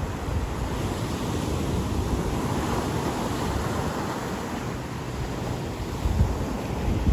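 Ocean surf washing onto a beach, a wave swelling and breaking with a steady hiss, with low rumbling wind buffeting the microphone.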